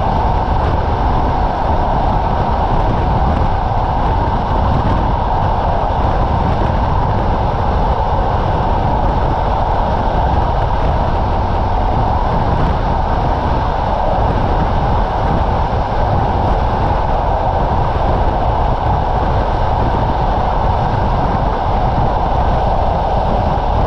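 Passenger coach running at speed: a steady, loud rumble of wheels on rail mixed with rushing noise, with no distinct rail-joint clicks standing out.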